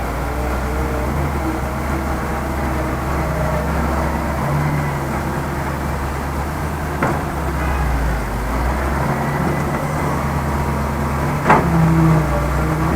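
Heavy diesel engine of earth-moving machinery running steadily at a low rumble, with two sharp knocks, the second, near the end, louder.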